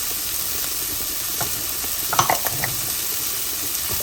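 Diced calabresa sausage with onion and garlic sizzling in olive oil in a frying pan, being stirred, with a few clicks of the utensil against the pan about two seconds in.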